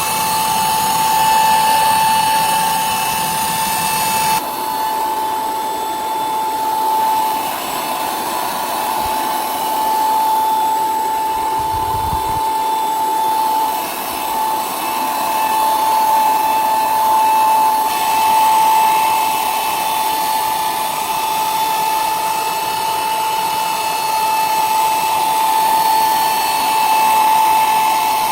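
Electric power tool running continuously with a steady high whine over a hiss. The sound changes abruptly a couple of times, as if cut between takes.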